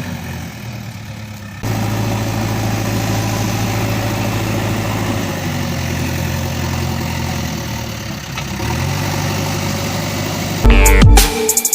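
Small DC motor of a homemade mini tractor and water pump model running with a steady hum, its pitch shifting a couple of times. Loud electronic music cuts in near the end.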